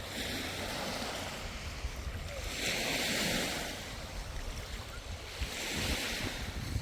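Waves washing in, a hiss that swells and fades about three times, with wind rumbling on the microphone.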